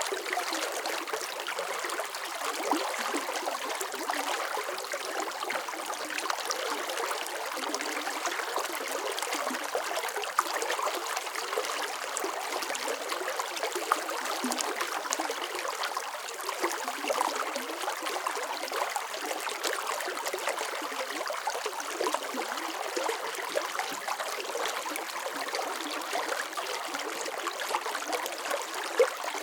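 Running water splashing and trickling steadily over rocks, a bright even rush of small splashes with no deep low rumble.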